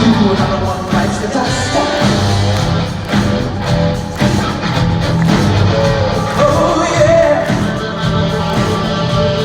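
Live rock band music with singing, carried by a strong bass line, at concert loudness.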